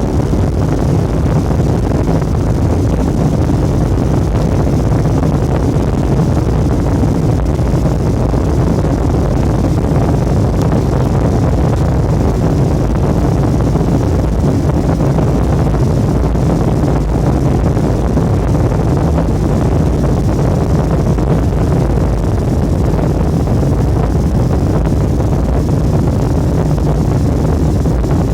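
Jet airliner heard from inside the cabin during takeoff: a loud, steady rumble of engines and rushing air that holds even throughout.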